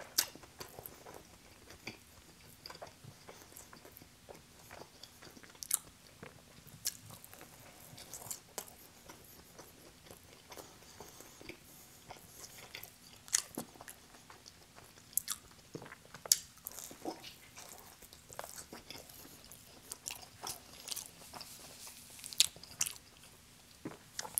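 A person chewing pizza: irregular crunches and wet mouth clicks.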